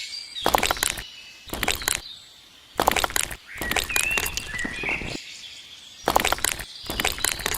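Small birds chirping, with short bursts of loud gritty noise about every second and a half.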